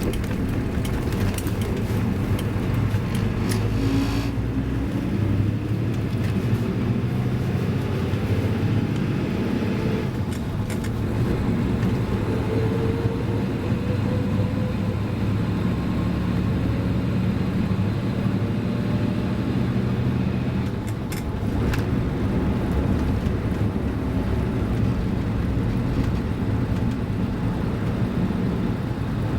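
Toyota Land Cruiser HJ60's 2H straight-six diesel engine running on the move, its note stepping up and down several times as engine speed changes, with a few short clicks.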